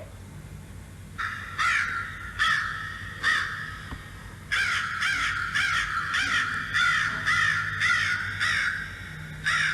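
Crow cawing repeatedly: a few spaced calls, then a quick run of about two caws a second from about four and a half seconds in, and one last caw near the end.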